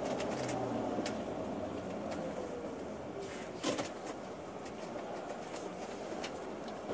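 Steady engine and road noise inside a moving tour coach, with a faint whine that falls in pitch over the first few seconds and a few light clicks and rattles, the sharpest about halfway through.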